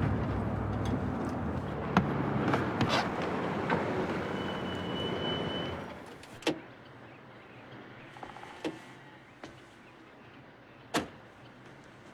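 Car engine running as the car pulls over, with a brief high squeal near the middle; the engine stops about six seconds in. A few separate sharp clicks and knocks follow.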